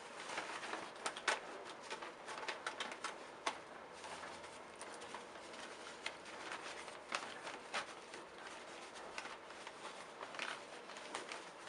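Handling noises as a new paper dust bag is fitted into a 1962 Hoover Senior 652A upright vacuum: scattered small clicks and light paper rustling at irregular intervals.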